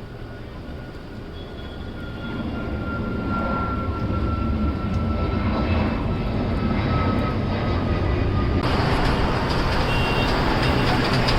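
Jet airliner engines passing close: a rumbling roar that grows louder over the first few seconds, with a whine slowly falling in pitch, and a harsher hiss joining about nine seconds in.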